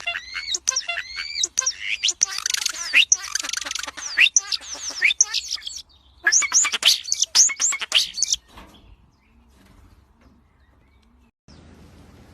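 Birds chirping: a dense run of quick, high chirps, many overlapping, that stops suddenly about eight seconds in, leaving only a faint low hum.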